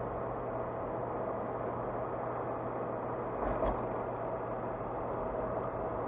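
Steady road and engine noise of a car being driven, heard from inside the cabin, with a brief low thump about three and a half seconds in.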